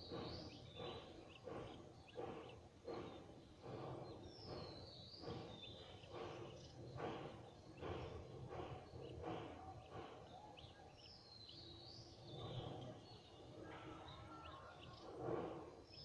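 Faint outdoor ambience: a bird repeats a short, high, falling call phrase about every five seconds over a background of irregular distant sounds.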